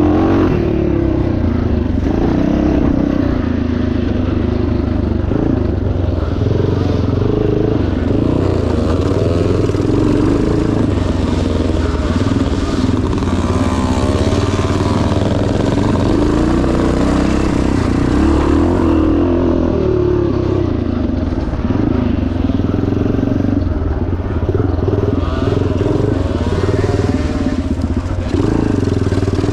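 1977 Yamaha TT500's air-cooled four-stroke single-cylinder engine running hard as the bike is ridden off-road, its revs rising and falling continuously with the throttle. A rushing noise thickens through the middle of the stretch.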